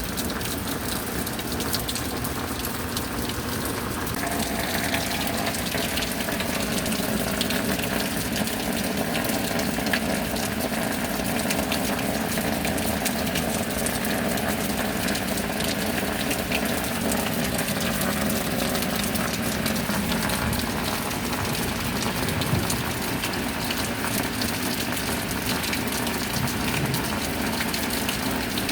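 Steady rain with water running and gushing. About four seconds in it grows a little louder, as a fuller pouring sound joins the rain.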